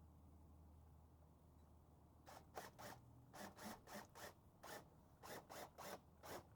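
A quick run of about a dozen short rasping scrape strokes, two to three a second, starting about two seconds in, over a low steady hum.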